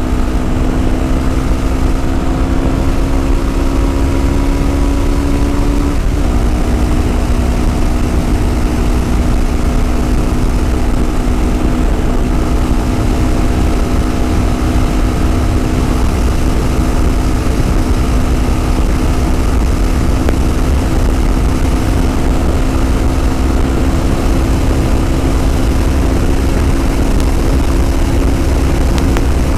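Yamaha WR250R's single-cylinder 250cc engine running at a steady cruising speed on the road, with heavy wind rumble on the microphone. The engine note breaks briefly about six seconds in, then settles back to a steady pitch.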